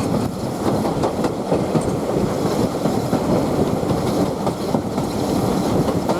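Steam-hauled heritage train behind LMS tank engine No 41313 running along the line: a steady rumble of wheels on the rails with a few faint clicks.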